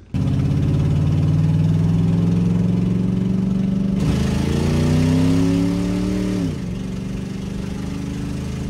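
Dodge police car's engine heard from inside the cabin, pulling under acceleration with its pitch climbing steadily, dipping briefly about four seconds in as the automatic transmission shifts up, then climbing again. About six and a half seconds in the pitch falls and it settles to a quieter, steady cruise.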